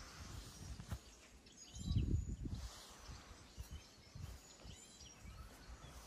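Birds chirping outdoors, short sliding calls repeated now and then over a faint background hum, with a low rumble about two seconds in.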